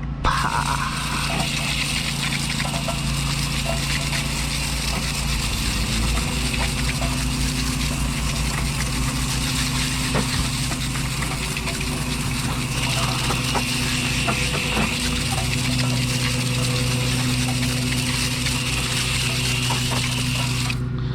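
Pressure washer running and spraying water, rinsing a cleaned car wheel: a steady hiss of spray over a motor hum whose pitch shifts a couple of times as the load changes.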